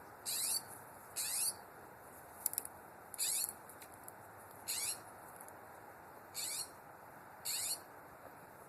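A bird calling over and over: six short, high calls, each dropping in pitch at its end, about one to two seconds apart.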